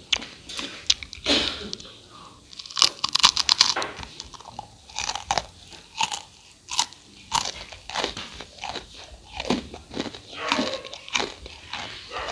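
Close-up crunching of crispy fried rice cakes (Cambodian bay kdang) being bitten and chewed. There is a dense run of crackling crunches about three seconds in, then a crunch every second or so.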